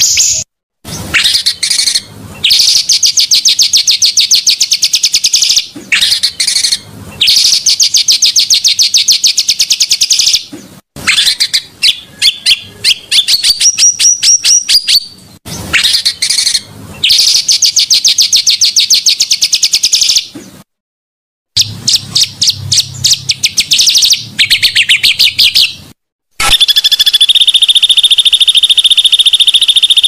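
A bird sings loud, fast rattling trills in rolls of one to three seconds, broken by abrupt silent cuts as in an edited song loop. Near the end a steadier, buzzing trill takes over.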